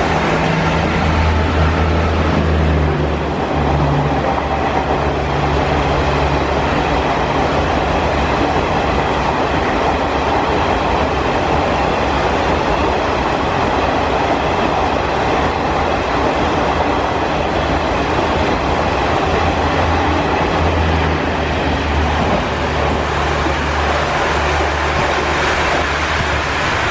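A train running past along the track in heavy rain: a steady rumble of wheels and coaches with some clickety-clack, over a constant low hum and the hiss of the rain.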